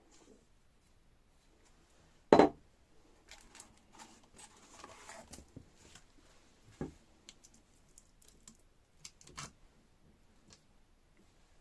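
Handling noises as parts are picked up and set down: a sharp knock about two and a half seconds in, a smaller knock near seven seconds, and light clicks and taps in between.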